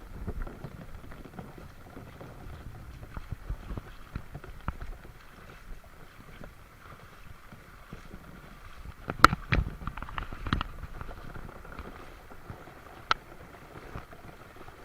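Footsteps wading through shallow floodwater, splashing and sloshing irregularly. A few louder, sharp hits come about nine to ten and a half seconds in, and one more near the end.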